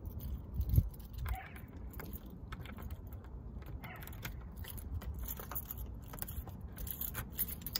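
A bunch of keys jangling and clicking at a door lock as the door is unlocked, with a thump about a second in.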